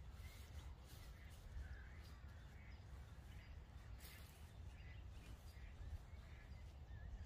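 Faint bird calls, short and repeated about once or twice a second, over a low wind rumble, with brief soft rustles of tent fabric being rolled up.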